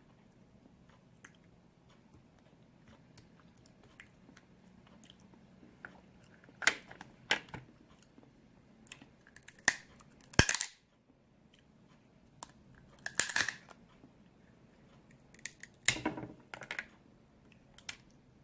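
Snow crab leg shells being cracked open without a nutcracker, with chewing and crunching. After a quiet start, a string of sharp cracks and snaps begins about six seconds in, the loudest about ten seconds in and again near sixteen seconds.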